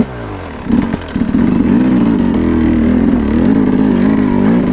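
Two-stroke dirt bike engine pulling in a low gear, its revs picking up about a second in and then held with the pitch wavering up and down as the throttle is worked.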